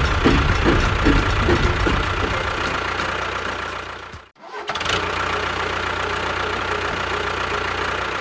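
An engine running with a rhythmic chug of about three beats a second. It fades out about four seconds in, and a steady, even engine hum takes over.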